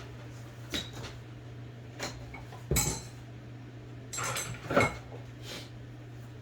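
Small metal clicks and clinks of tools and parts working on an IBM Selectric II typewriter's mechanism while a part is being taken off: about six separate sharp knocks, a cluster near the middle.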